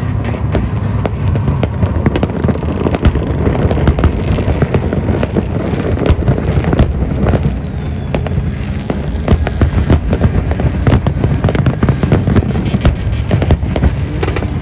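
Fireworks display: a rapid, continuous run of sharp cracks and bangs over a steady low rumble, with music under it.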